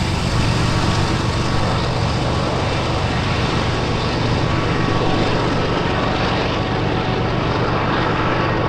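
Freight train of intermodal container cars rolling past close by, a steady loud rumble of steel wheels on rail with a constant low hum.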